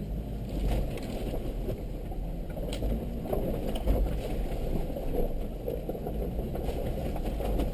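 A vehicle's engine running low and steady as it drives through creek water, with water sloshing and splashing around it.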